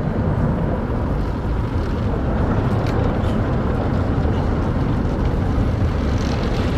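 Automatic car wash spraying water over the car, heard from inside the cabin as a steady, loud rush of noise.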